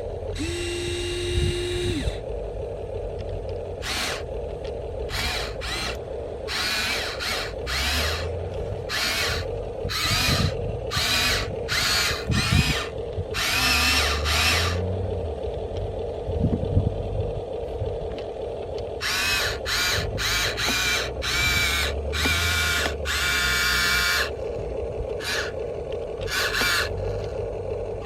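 Electric gear motors of a Huina 1593 RC toy excavator whirring in many short bursts, one after another, as the arm, bucket and tracks are worked, over a steady hum.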